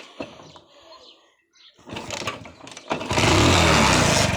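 Hero Honda Passion Plus motorcycle's single-cylinder four-stroke engine being kick-started: after a couple of kicks it catches about three seconds in, revving up and running loudly. The kick lever's return spring is broken, so the lever is pulled back with a thread between kicks.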